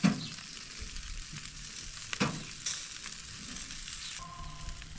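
Burgers sizzling as they fry, a steady hiss, with a short sharp sound at the start and another about two seconds in as they are turned.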